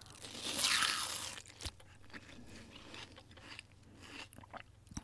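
Quiet close-up eating sounds of a person taking a spoonful of rice and chicken: a louder noisy stretch in the first second or so, then soft chewing with scattered small clicks.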